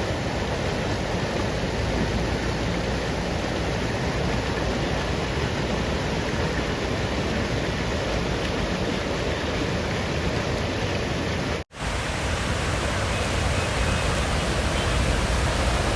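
Rainstorm: a steady rushing noise of heavy rain and running water. It drops out for an instant near the end, then carries on with more low rumble.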